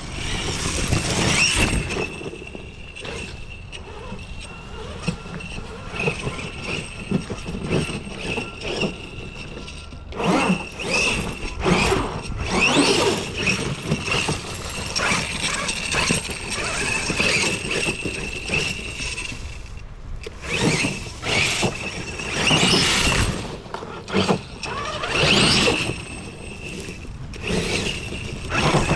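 Homemade 12S electric RC monster truck driving in bursts of throttle: its brushless motor gives a steady high whine, rising in pitch each time it accelerates, over noisy surges from the drivetrain and tyres.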